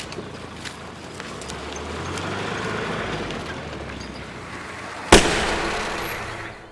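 A vehicle's engine and tyres approaching, swelling and then easing off, followed about five seconds in by a single sharp bang, the loudest sound, that rings away.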